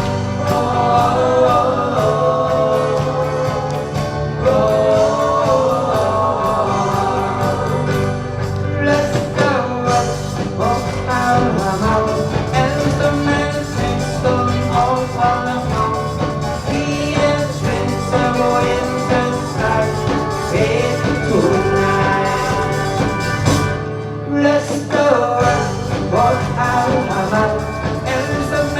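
Live band playing an oldies pop song with a singer, steady bass and voices over the top throughout.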